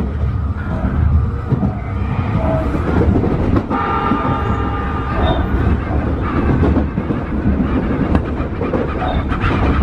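Tobu 50090-series electric train running at speed, a steady low rumble of wheels on rail with occasional knocks from the track. A brief whine of several tones is heard about four seconds in.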